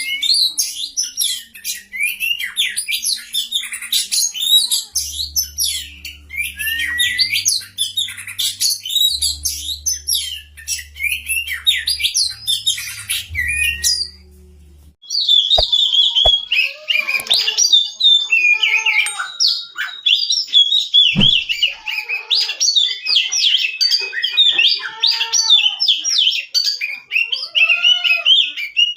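Oriental magpie-robin song: a dense stream of rapid, varied chirps and whistled phrases. The song breaks off briefly about halfway, then resumes with lower repeated arched calls beneath it, and a couple of clicks and a thump.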